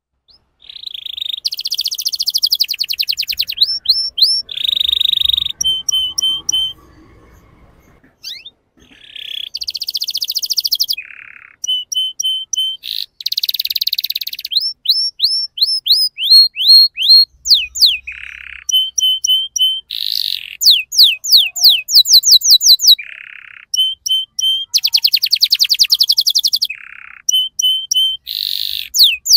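Domestic canary singing a long, varied song: phrases of rapid repeated notes, fast trills and sweeping notes, with a brief pause about seven seconds in.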